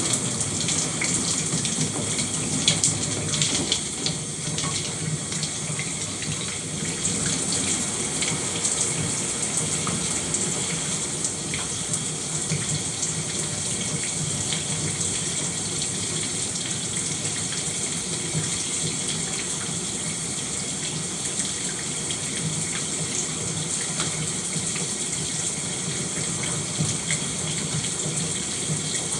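Shower running steadily, water spraying and spattering in an even continuous hiss.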